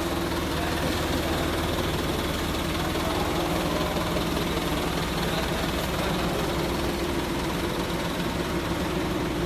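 An engine running steadily at an even, low hum.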